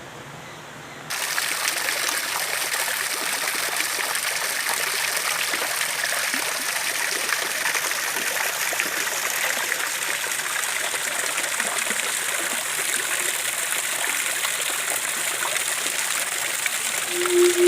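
Running stream water, a steady rushing and trickling that cuts in abruptly about a second in.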